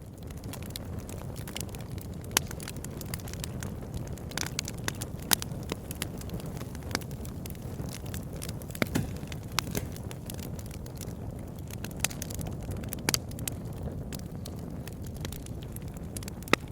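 Campfire burning: wood crackling and popping in irregular sharp snaps, a few louder pops standing out, over a steady low rumble.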